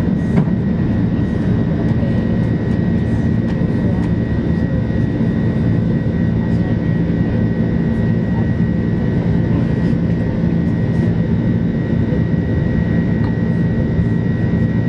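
Airbus A330's jet engines and airflow heard inside the passenger cabin: a loud, steady rumble with a thin high whine held throughout.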